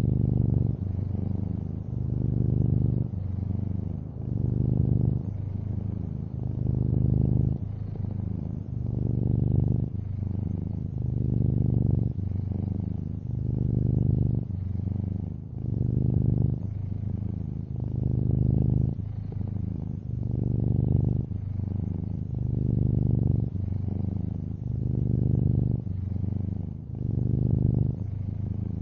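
Long-haired orange tabby cat purring steadily, the low rumble swelling and easing in a regular cycle about every two seconds.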